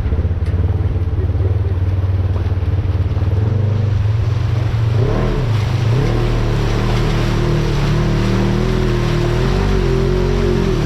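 Off-road vehicle's engine running at low revs, then revving up about halfway through and holding higher, with a slight waver, as it pulls through a rocky waterfall crossing under load.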